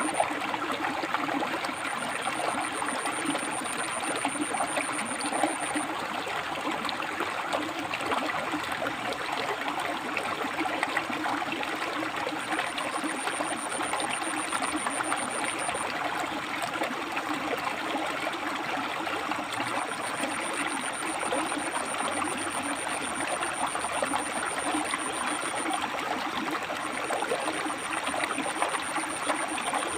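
River water flowing and splashing over rocks, a steady rushing. A thin, high, steady whine comes and goes several times in stretches of a few seconds.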